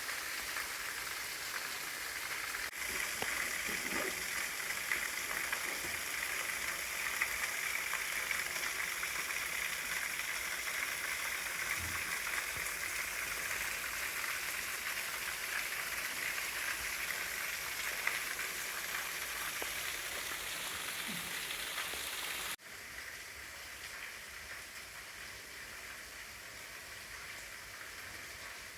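Waterfall splashing: a steady hiss of falling water. It drops suddenly to a quieter level about three-quarters of the way through.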